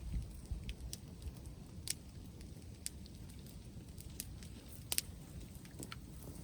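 Wood bonfire crackling, with scattered sharp pops about a second apart, the loudest about five seconds in, over a steady low rumble.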